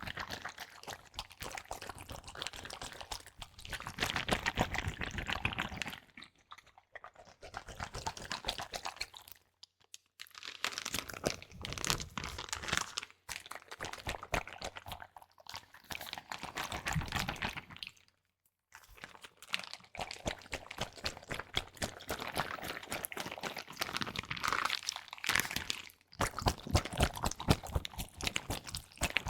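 Close-miked ASMR trigger sounds: dense crackling and crinkling, with a wet liquid edge, in bursts a few seconds long separated by short pauses.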